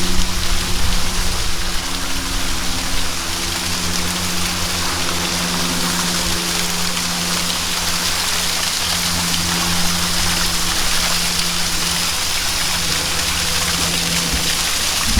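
Waterfall: falling water making a steady rushing splash, with a low steady hum underneath.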